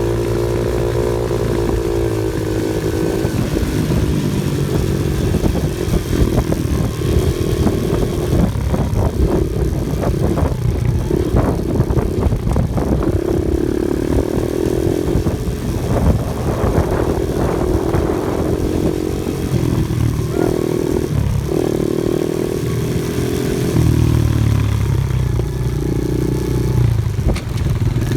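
Off-road vehicle engine running on a rough trail, its pitch rising and falling with the throttle, over many short clattering knocks and rattles from the bumpy ground.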